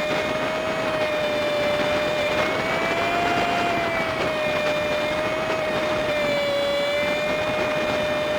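Honda Super Cub 50's small single-cylinder engine running at a steady cruise, with wind and road noise, played back five times fast so it comes out as a high, steady whine that wavers slightly in pitch.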